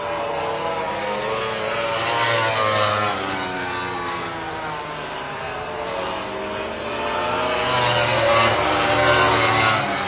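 MotoGP racing motorcycle engines running at speed, the engine note swinging up and down in pitch, with louder swells about two and a half seconds in and again near the end.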